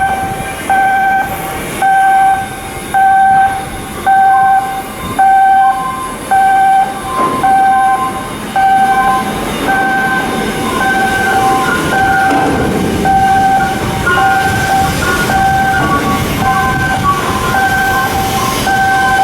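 An electronic warning alarm beeping in a steady rhythm of short beeps. From about six seconds in it alternates between two pitches. A continuous noisy machinery background runs underneath.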